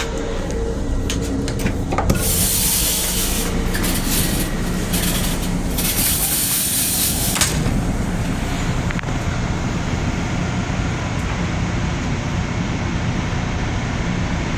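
Long Island Rail Road M7 electric railcar running, heard as a steady low rumble inside the car's small restroom. A loud hiss comes in about two seconds in and cuts off about seven and a half seconds in.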